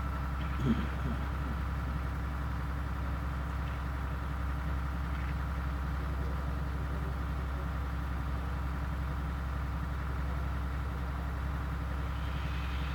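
Steady low hum and hiss of the recording's background noise, with a faint brief sound about a second in.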